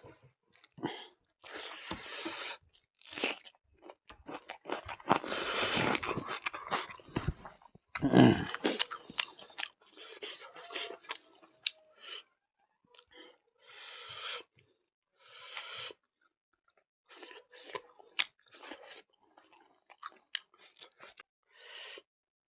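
A person chewing food close to the microphone in many short, irregular bites, some of them crunchy. About five to eight seconds in there is a longer, louder noise.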